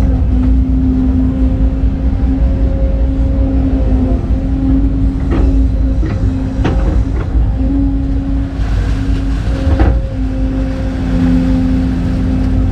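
Excavator's diesel engine running steadily, loud, with a constant drone. A few short, sharp knocks sound about five to seven seconds in and again near ten seconds.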